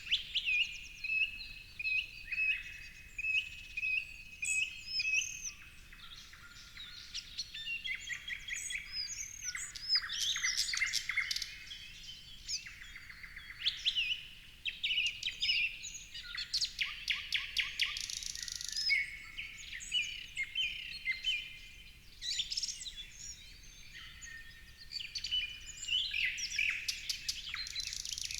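Several birds singing and calling at once: overlapping high chirps, quick sweeping notes and trills, with a run of short repeated notes in the first few seconds.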